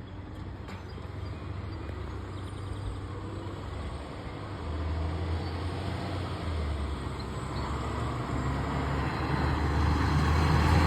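Fire truck's engine running with a low rumble that grows steadily louder as the apparatus draws closer, loudest near the end.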